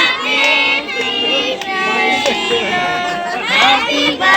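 Several voices, children among them, singing and calling out together, with held notes and high sliding cries.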